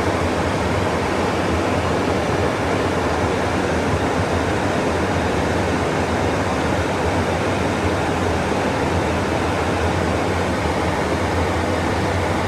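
Steady cockpit noise of an airliner in cruise: an even rushing of airflow and engine noise over a constant low hum.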